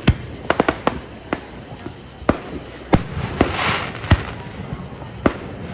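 Fireworks from a firework show going off in an irregular run of sharp bangs, about ten in under six seconds, with a short hissing swell a little past the middle.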